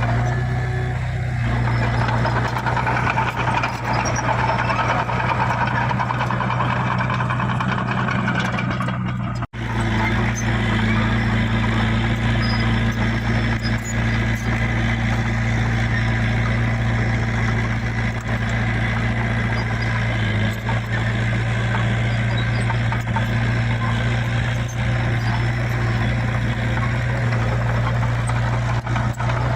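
Heavy diesel engine of earthmoving machinery running steadily, with a brief break in the sound about nine and a half seconds in.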